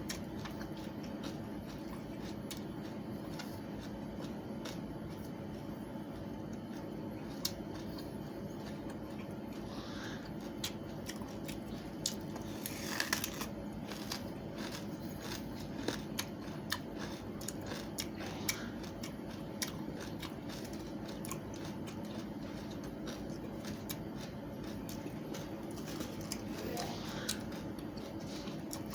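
Watermelon rind being bitten and chewed close to the microphone: many short, crisp crunches and clicks, irregular, over a steady low hum.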